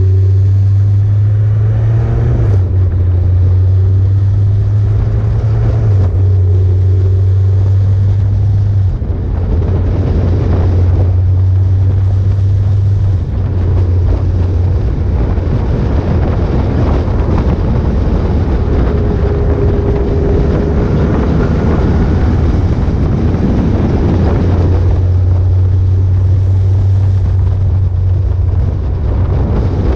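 Motorcycle engine running under way, a steady low drone whose pitch steps up and down a few times with changes of speed or gear, with wind rushing over the microphone.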